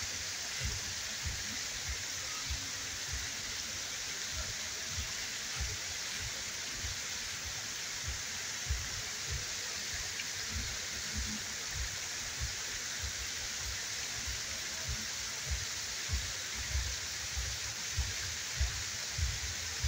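Waterfall rushing steadily, an even hiss of falling water, with irregular low thumps about once a second.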